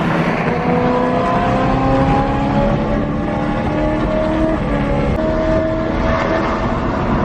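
Car engine running at steady, moderate revs, its pitch climbing slowly for the first couple of seconds and then holding level, over a constant low rumble.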